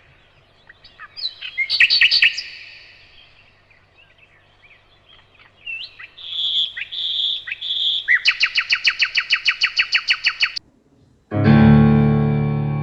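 Birds chirping and whistling, ending in a fast, even trill of about ten notes a second. After a brief pause near the end, a piano comes in with a held chord.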